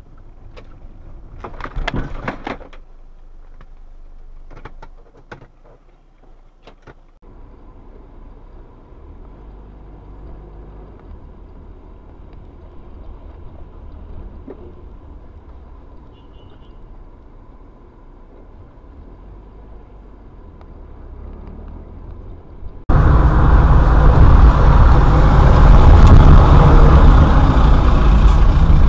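Car road and engine noise as heard from a dashcam: a brief cluster of sharp knocks about two seconds in, then a quieter steady rumble, and from about 23 seconds in a much louder, steady rumble of driving noise.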